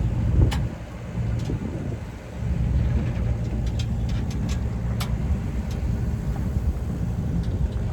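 Sailboat's auxiliary engine running steadily under way while motor-sailing, a low continuous rumble that dips briefly about a second in, with a few light clicks.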